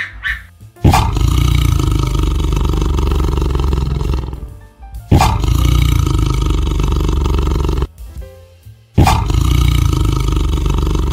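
Tiger roaring three times, each roar starting suddenly and lasting about three seconds, with background music in the gaps between them.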